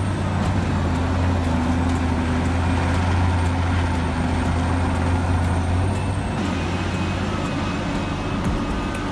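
Large mining excavator's diesel engine running with a steady low drone and faint regular clicking above it; the higher sound drops away about six and a half seconds in.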